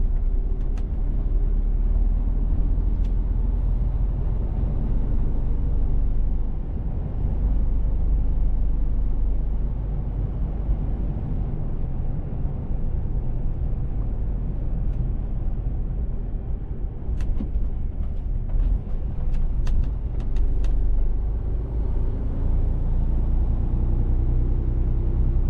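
Mercedes-Benz Actros truck's diesel engine running with steady road rumble while driving. A few short clicks come about two-thirds of the way through.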